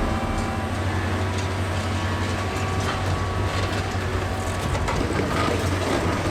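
A heavy machine's engine runs with a steady low rumble, mixed with scattered metallic clanks and knocks.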